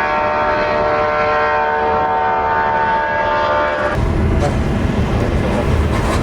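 Jet airliner engines running with a steady whine of several tones over a rush of noise. About four seconds in, the sound cuts abruptly to a low, rumbling noise.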